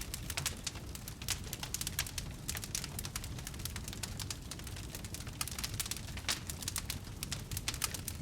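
Wood fire crackling: many irregular sharp pops and snaps, several a second, over a steady low rumble of the burning.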